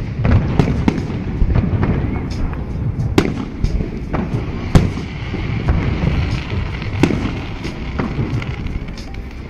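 Fireworks display: aerial shells bursting one after another in sharp bangs over a continuous low rumble of booms. The loudest bangs come about three and five seconds in.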